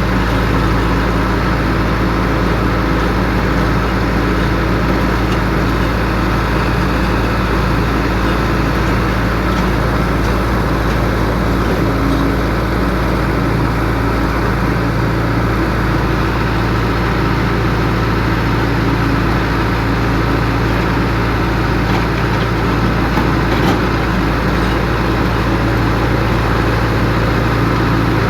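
Heavy diesel engine of a piling rig running steadily at a constant speed.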